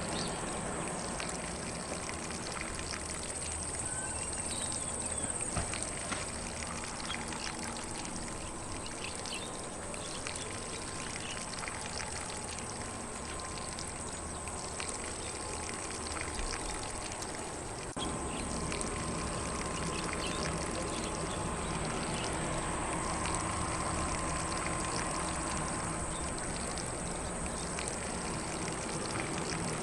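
Lawn sprinkler spraying water onto grass: a steady, even hiss and patter of falling water, stepping up slightly in level about eighteen seconds in.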